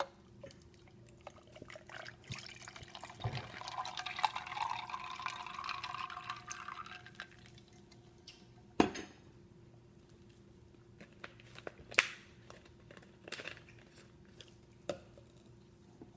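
A drink being poured into a glass for several seconds, the pitch of the stream rising as the glass fills, followed by two sharp knocks like a bottle or glass being set down.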